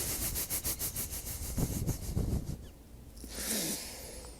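A man's breathless, wheezing laughter in rapid breathy pulses, about six a second, ending about three seconds in with a sighing exhale that falls in pitch.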